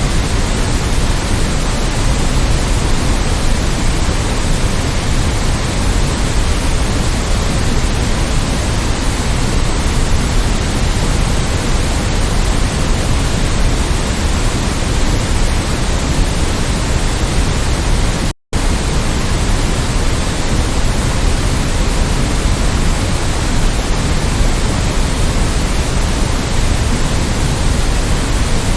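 Steady electronic noise, an even, full hiss that is heavier in the low end, with no tones or rhythm. It drops out to silence for a split second about two-thirds of the way through, then resumes unchanged.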